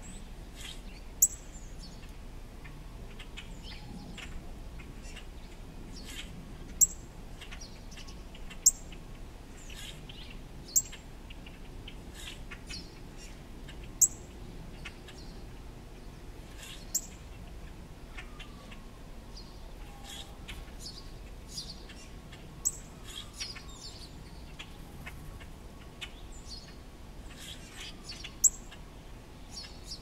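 A small songbird giving sharp, high chip calls, each a quick downward slur, about eight of them at uneven intervals of one to six seconds. Fainter chirps from other birds fall between them.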